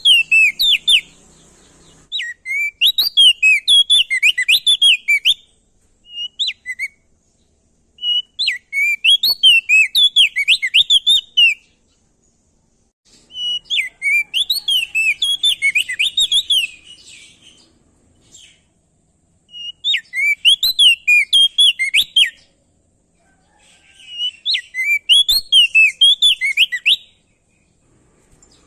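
Crested white-eye (opior jambul, also called prenjak daun) singing loud phrases of rapid notes that sweep up and down, each phrase a few seconds long with short pauses between, one short phrase among them.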